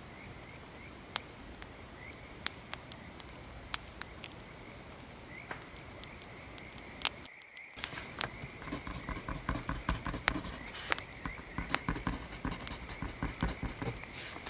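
Bonfire crackling, with sharp scattered pops over a steady hiss. From about 8 seconds in, quick scratchy strokes of a pencil writing on paper join it.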